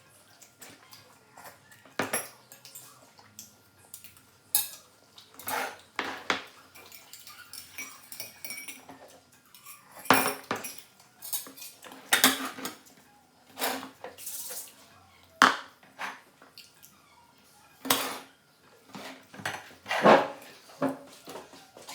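Metal utensils clinking and knocking against dishes in irregular, separate strikes a second or two apart.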